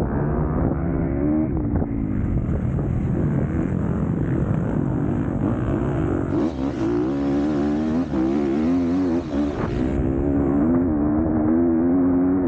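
MX2-class motocross bike engine revving hard, its pitch climbing and dropping again and again as the throttle is worked through the track.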